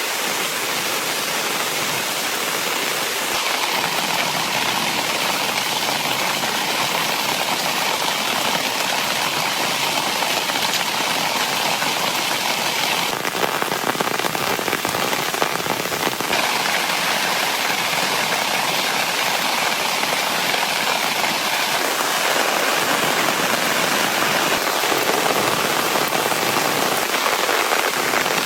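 Heavy rain falling steadily, a dense, unbroken mass of drop impacts.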